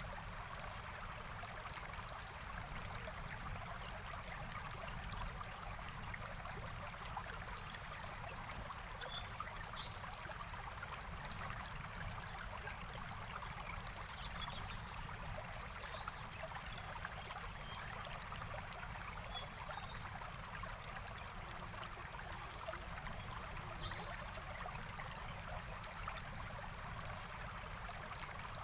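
Forest stream running steadily, with a few faint, short bird chirps now and then.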